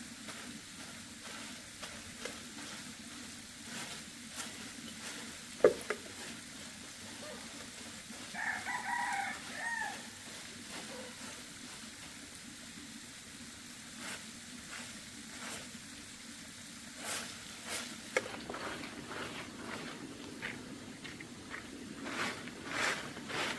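A rooster crowing once, a broken call of about a second and a half, about eight seconds in, over a steady low hiss. A single sharp knock comes a couple of seconds before it, and a run of light knocks near the end.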